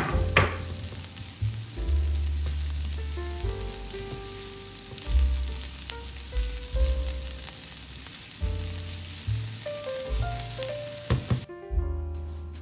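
Onion and diced red pepper sizzling in hot vegetable oil in a frying pan, a steady hiss that cuts off sharply near the end. Soft background music with held bass notes plays underneath.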